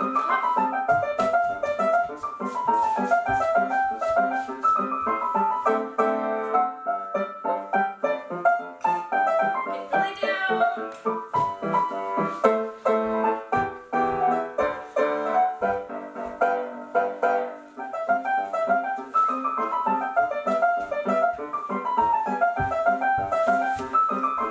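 Instrumental piano music, playing a pattern of quick descending runs of notes that repeats.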